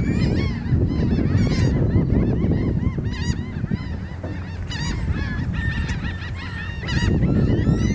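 A flock of gulls calling, with many short arched calls overlapping throughout, over a loud low rumble.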